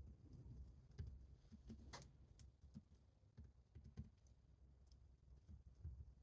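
Faint, irregular light taps and clicks of quiet desk work, such as a pen or keys on a desk, with a sharper tap about two seconds in.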